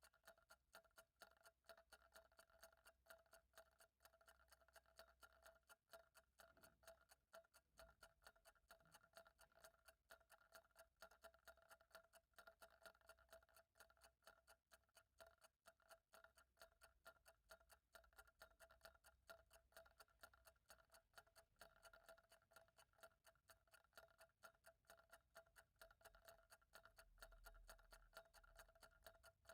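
Faint, steady ticking of a clock, the clicks evenly spaced and continuous, over a faint steady hum.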